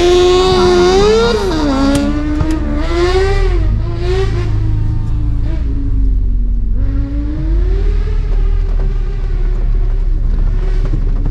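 A race buggy's engine accelerating hard and loud, its pitch climbing and dropping back several times as it shifts through the gears.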